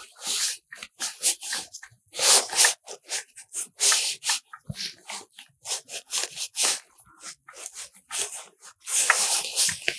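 A run of short, irregular rustling and scraping sounds, several each second, with louder clusters now and then.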